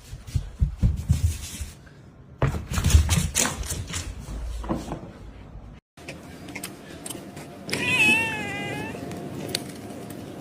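A cat meows once, a wavering call lasting about a second, near the end. Before it come scattered bumps and rustling.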